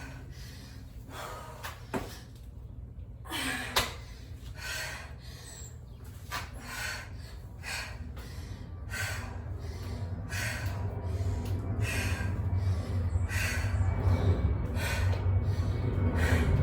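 A woman breathing hard and rhythmically while exercising, with a sharp exhale about every three-quarters of a second. A couple of knocks come in the first few seconds, and a low rumble builds toward the end.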